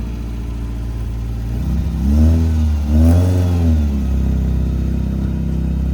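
Car engine idling, blipped twice about two and three seconds in, each rev rising and falling back to idle.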